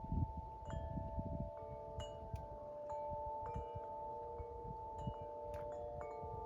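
Wind chimes ringing gently: a few different notes are struck now and then and each rings on, overlapping the others. Wind rumbles on the microphone, mostly in the first second or so.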